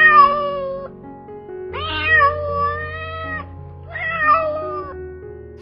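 Domestic cat meowing three times, each meow long and drawn out, the second the longest, over background music.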